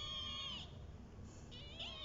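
Kitten meowing: a long, high-pitched call that dips in pitch and ends about half a second in, then another wavering meow begins near the end.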